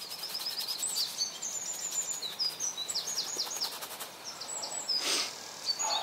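A songbird singing: quick runs of short, high chirping notes repeated in phrases, one after another.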